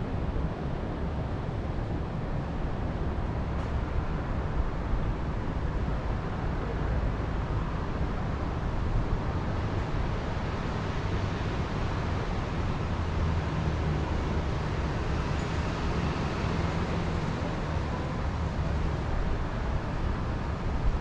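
Wind blowing through the forest, with a gusty low rumble from the wind buffeting the microphone and a steady rushing hiss over it.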